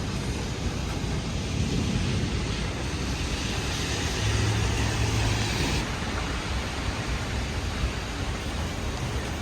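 Heavy thunderstorm rain with gusty wind: a steady rushing hiss that grows brighter for a few seconds and drops back suddenly about six seconds in.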